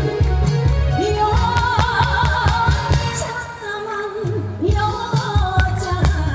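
A pop song with a held, wavering sung melody over a backing track with a steady drum beat and bass. The beat drops out briefly a little past the middle and then comes back in.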